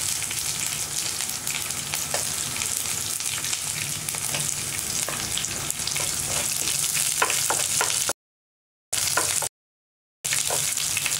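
Garlic and dried red chillies sizzling in hot oil with fried dals in a non-stick pan: a steady high hiss. A wooden spatula stirs them, with occasional light scrapes and clicks. The sound cuts out to silence twice briefly near the end.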